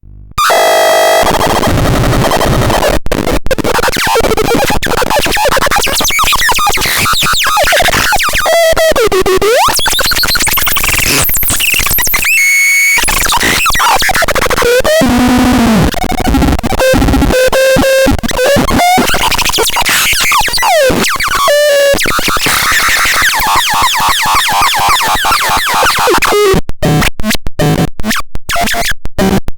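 Electronic synthesizer making harsh, noisy tones with pitch sweeps that rise and fall, broken by sudden dropouts. It turns choppy and stuttering near the end.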